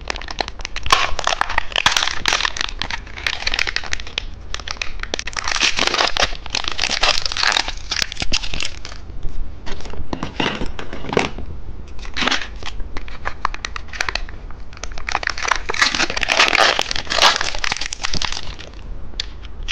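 Crinkly plastic candy packaging being handled and torn open, in irregular bursts of rustling and crackling with short pauses.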